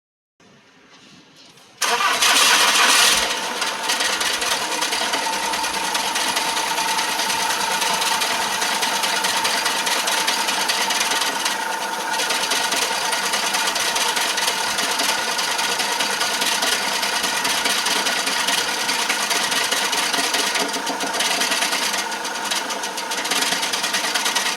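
Volkswagen Jetta 2.0 TDI four-cylinder diesel engine cranking faintly for a moment, catching about two seconds in with a short loud flare, then settling to a steady idle.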